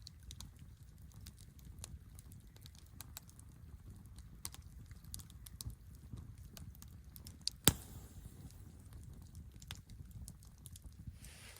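Campfire crackling: irregular sharp wood snaps and ticks over a low rumble, with one loud pop a little past the middle.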